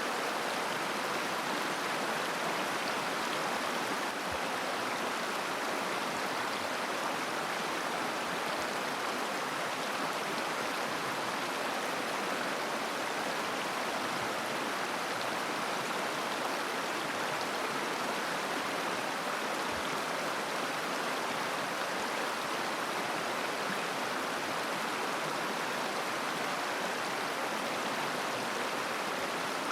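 River water flowing over stones, a steady, unbroken babbling rush.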